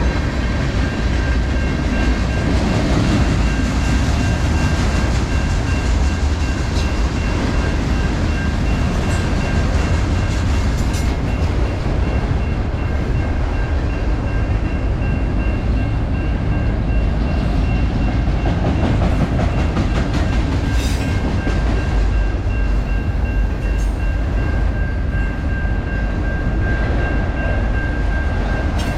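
A long freight train's cars rolling past on the rails: a steady rumble with clickety-clack from the wheels and a thin, steady high whine, unbroken throughout.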